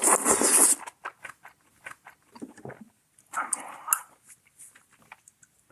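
Close-miked eating of hand-cut kalguksu noodle soup: a loud slurp at the start and another around three and a half seconds, with wet chewing clicks in between and after.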